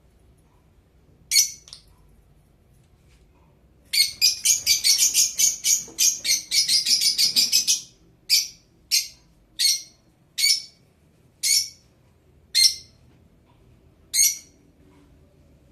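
Blue Fischer's lovebird chirping shrilly. One call comes early, then a fast run of chirps lasting about four seconds, then seven more single chirps spaced about a second apart.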